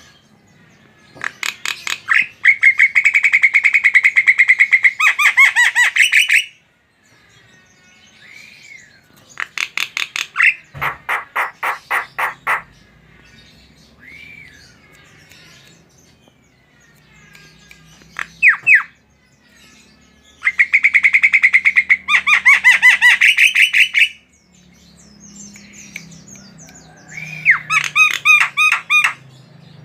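Javan myna (jalak kebo) calling in five loud bouts of fast, repeated harsh notes, with softer single whistled notes in the gaps between bouts.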